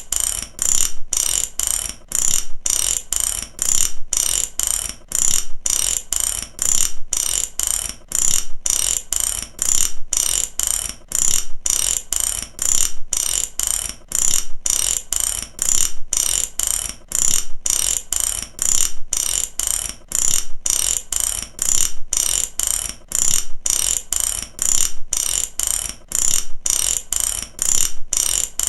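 Mechanical ratchet clicking over and over: runs of sharp clicks with short breaks between them, repeating at an even pace.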